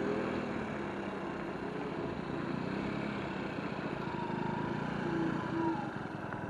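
Electric scooter riding along: steady road and wind noise, with a faint whine that rises and falls about two-thirds of the way through.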